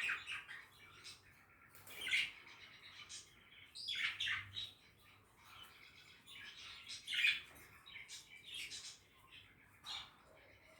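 Budgies chirping and chattering in short, scratchy bursts a second or two apart, the loudest about two, four and seven seconds in.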